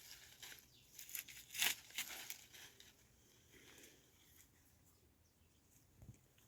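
Crackling and rustling with sharp clicks, loudest in the first two seconds, then fading to a faint rustle with a single soft knock near the end.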